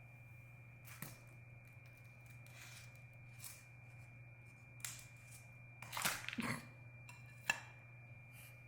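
A faint steady high-pitched whine over a low electrical hum, with a few scattered clicks and short rustles. The loudest is a rustling about six seconds in, followed by a sharp click a second and a half later.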